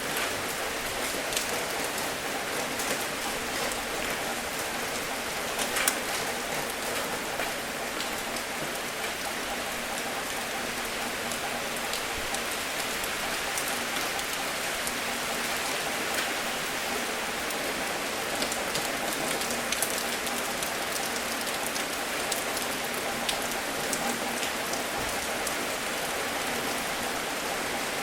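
Steady rain falling, with scattered individual drops tapping close by; one louder drip lands about six seconds in.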